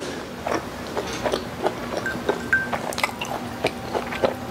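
Close-miked chewing of a soft steamed bao bun filled with adobo flakes, heard as many irregular mouth clicks, with a sip from a glass mug near the end.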